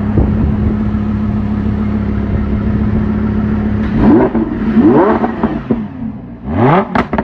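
Lamborghini engine idling steadily, then revved by throttle blips three times, each rising in pitch and dropping back, the last the highest.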